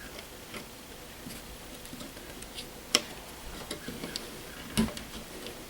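Small plastic clicks and taps from handling the Nest thermostat base and its wires while a wire is pushed into a terminal, with two sharper clicks about 3 seconds and about 5 seconds in.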